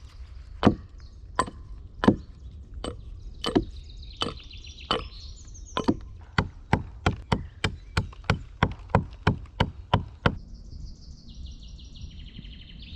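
Axe chopping wood: a run of sharp blows, about one every 0.7 seconds at first, then quicker at about three a second, stopping a little after ten seconds in.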